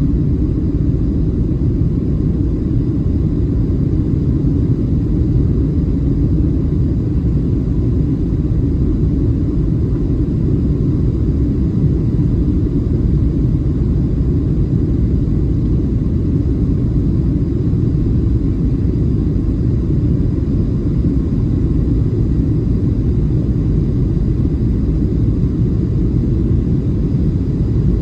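Steady low rumble of cabin noise inside a Boeing 737-700 in flight: its CFM56 jet engines and the airflow over the fuselage, with faint steady tones above it and no change in level.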